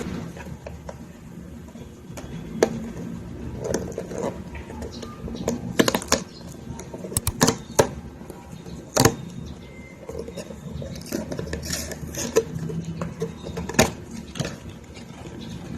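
Scattered light clicks, clinks and knocks of small household objects being handled, with a low steady hum underneath.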